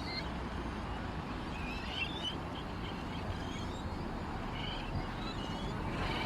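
Small songbirds chirping in short, scattered high calls over a steady low background rumble.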